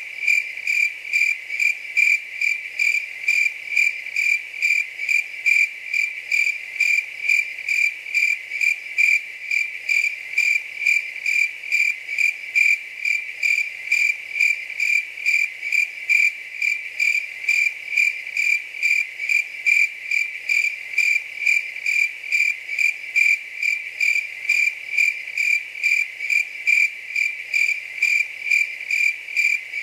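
A cricket chirping steadily at a high pitch, about two even chirps a second, without a break.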